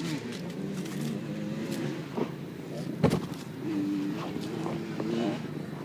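Engine running steadily with a low hum, its pitch wavering a little, and two sharp knocks, one at the start and one about three seconds in.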